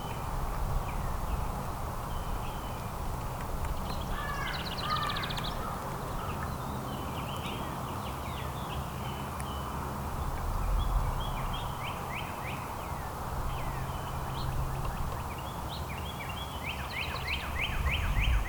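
Small songbirds chirping on and off, with a short song about four seconds in and a quick run of chirps near the end, over a steady low outdoor rumble.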